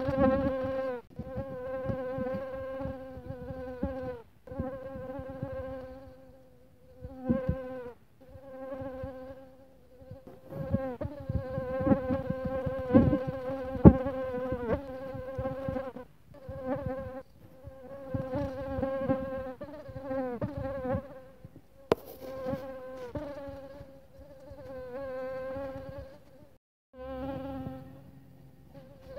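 Mosquito whine: a high, thin buzz that comes and goes in passes of one to three seconds with short gaps, its pitch wavering and now and then bending down as the insect flies past.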